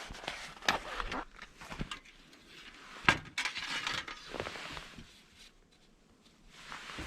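Objects being handled: a string of knocks and rustles, with one sharp clink about three seconds in.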